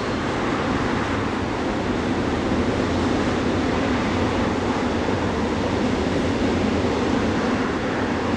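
Freight train of tank wagons rolling past, with the steady rumble of its steel wheels running on the rails.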